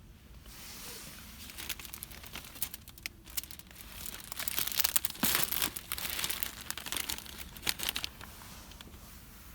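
Crinkly packaging being handled and crumpled: a dense run of crackles that builds to its loudest in the middle and dies down near the end.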